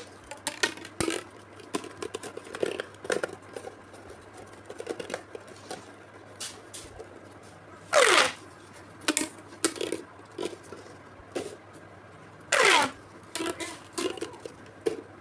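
A run of small, irregular pops and ticks, with two much louder pops a little past halfway and again near the end, each a quick downward-sweeping 'bloop' lasting about half a second.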